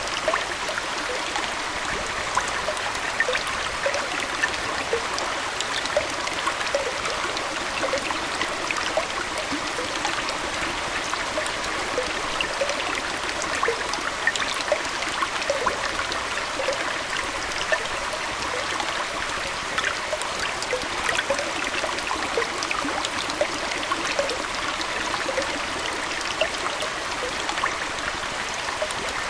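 Aquarium water flowing and trickling steadily, like a small stream, with many small quick plinks through it.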